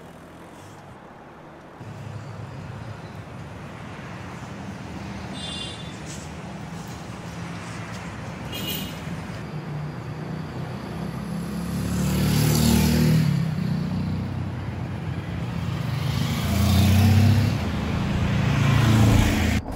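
Road traffic on a street: a steady hum of passing vehicles that grows louder after a couple of seconds, with vehicles passing close by about twelve seconds in and again about seventeen seconds in.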